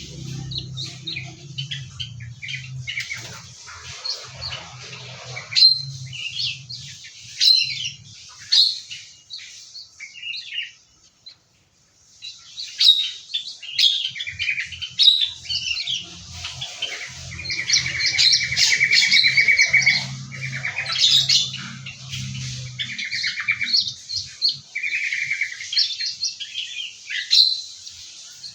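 Several small aviary birds chirping and calling over one another, with sharp tweets and a fast, buzzy trill repeated a few times in the second half. The calls stop briefly near the middle, then resume busier than before.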